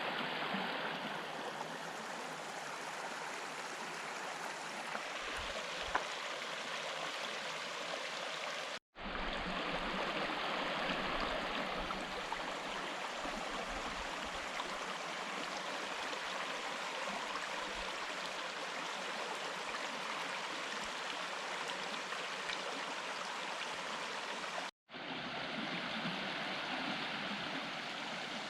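Steady rushing and burbling of a mountain creek flowing over rocks, broken twice by brief dropouts where recordings are joined.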